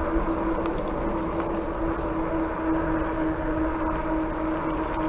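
RadRover fat-tire e-bike riding along: a steady whine from the rear hub motor over even wind and fat-tyre road noise.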